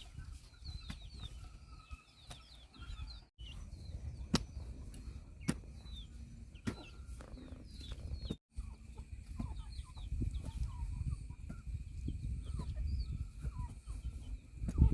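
Chickens clucking, with many short high chirps and a few sharp clicks. The sound drops out briefly twice.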